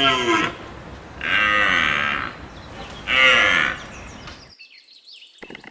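A deer calling: three drawn-out, lowing calls about a second and a half apart, the first already under way. The calls stop about four and a half seconds in, and faint rapid ticking follows near the end.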